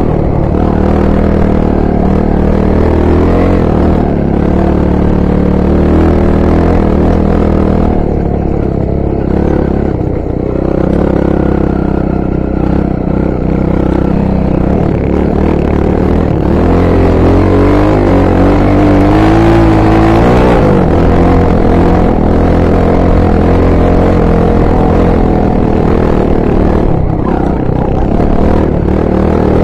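Honda XR 250 Tornado's single-cylinder four-stroke engine running continuously while being ridden, its revs rising and falling; the revs climb steadily from about seventeen seconds in, then drop sharply.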